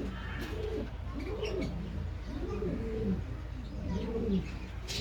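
Domestic pigeons cooing: a series of low rising-and-falling coos, about one a second, with faint higher chirps of other cage birds.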